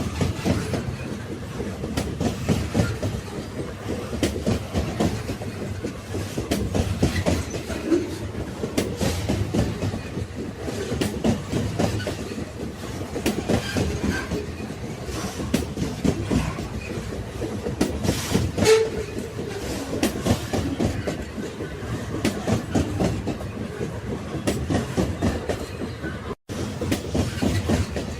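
Railway carriages rolling along the track: a steady low rumble with the wheels clattering over rail joints, and a sharper metallic clank about two-thirds of the way through. The sound drops out for an instant near the end.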